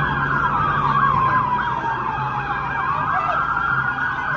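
Several police car sirens sounding at once: a slow wail rising and falling overlaps a fast repeating yelp, over a low steady hum.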